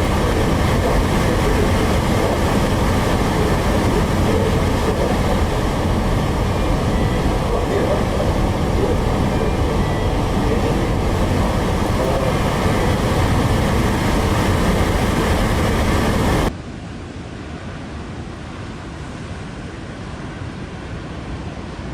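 Loud, steady rumbling noise with no distinct events. About 16 seconds in it cuts abruptly to a quieter, duller rushing noise, a change from one recording to another.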